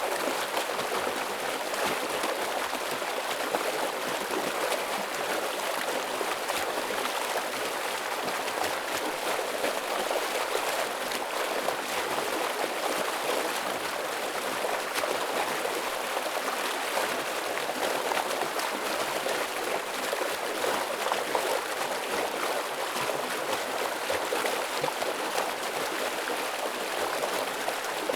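Stream water rushing and splashing over rocks in a heavy, steady flow.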